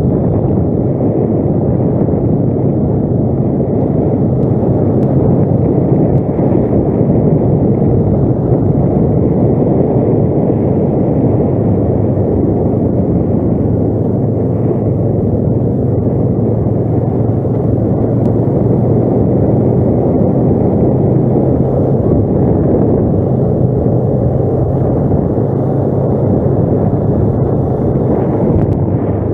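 ATV engine running steadily under way, a constant low drone with no breaks or revs.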